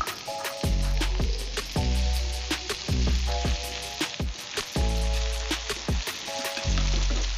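Chopped chilies and tomatoes sizzling as they stir-fry in a frying pan, with repeated sharp scrapes and taps of a metal spatula against the pan.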